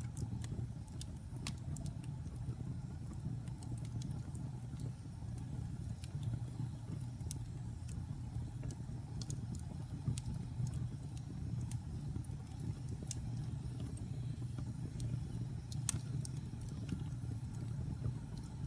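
Wood fire burning in a fireplace: a steady low rumble of flames with scattered crackles and pops, one louder pop near the end.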